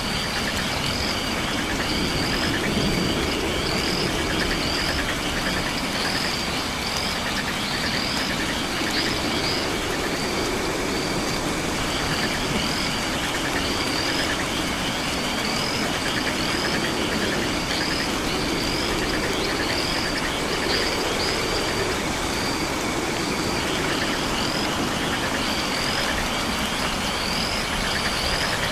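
Night rainforest chorus of frogs and insects: short high chirps repeat about once a second over a dense pulsing trill, with low croaks swelling every couple of seconds, all over a steady hiss.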